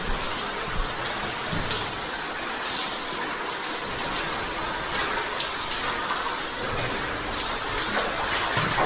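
Steady rush of water flowing in an underground cave stream, with a few faint knocks.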